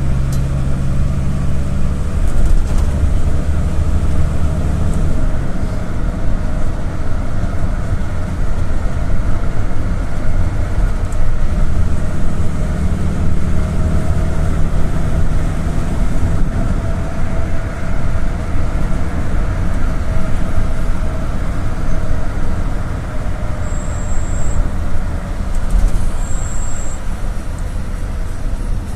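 Cabin noise of a GAZ-A68R52 Gazelle City minibus under way: a steady low rumble of engine and road, with the engine note changing now and then. Two short, high beeps sound near the end.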